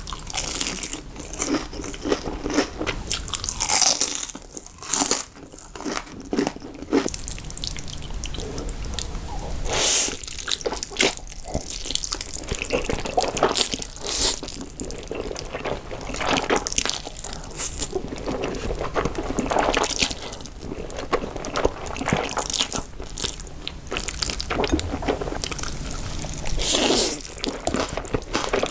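Close-miked eating sounds of spicy noodles: slurping, biting and chewing, with many short wet and crunchy sounds at irregular intervals.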